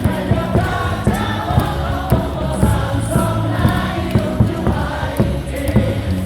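Baseball stadium crowd singing a cheer song in unison over amplified music, with a quick steady beat of about four hits a second.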